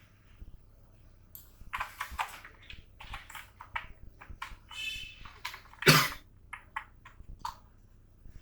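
Computer keyboard typing: irregular clicking keystrokes, with one louder knock about six seconds in.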